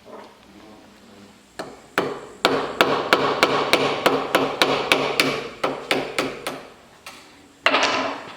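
Hammer tapping repeatedly on a small metal fitting, a few separate blows and then a quick run of about four strikes a second, followed by a short clatter near the end.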